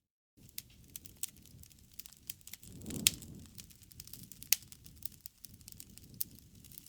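Campfire crackling: wood burning with irregular sharp pops and snaps over a soft low rumble, and louder pops about three and four and a half seconds in. It opens with a split second of complete silence.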